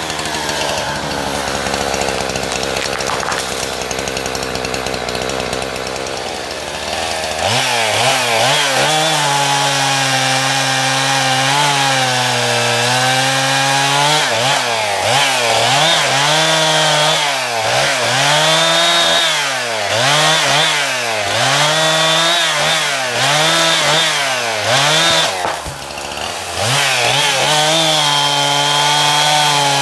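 Two-stroke chainsaw running: for the first seven seconds or so the engine holds a lower, steady pitch. It then runs at high revs while cutting wood, the pitch dipping and recovering over and over as the chain loads up in the cut.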